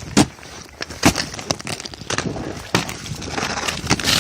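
Ice-glazed snow crust cracking and crunching as it breaks: a run of sharp snaps at uneven intervals, about half a dozen in all.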